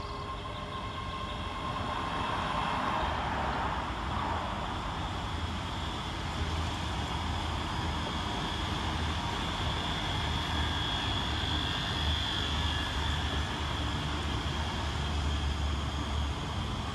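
ScotRail Class 385 electric multiple unit moving through the platform: a steady rumble of wheels on rail with a faint electric whine, growing louder about two seconds in.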